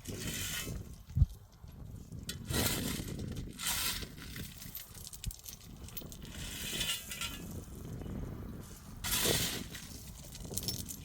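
Small pebbles clinking and scraping against each other in irregular bursts, as if being handled or scooped, with a sharp knock about a second in.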